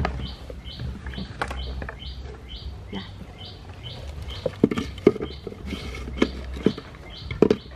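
A bird chirping over and over, about two chirps a second, with a few sharp knocks and clinks in the second half.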